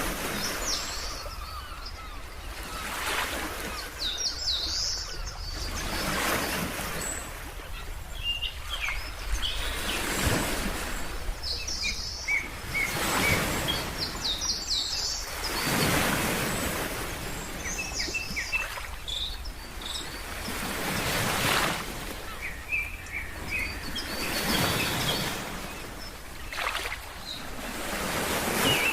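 Ocean waves washing in and out, swelling every few seconds, with birds chirping in short, scattered high calls throughout.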